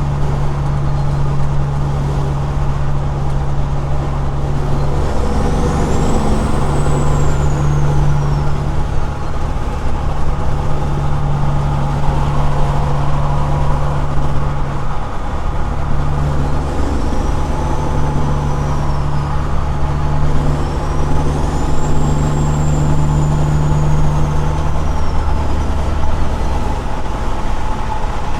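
Caterpillar 6NZ inline-six diesel truck engine running through straight pipes, a steady loud drone whose note dips briefly a few times. A faint high whistle rises and falls twice.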